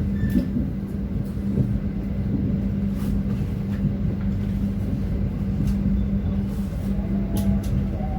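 Passenger train running at speed: a steady rumble with a constant hum and a few scattered clicks.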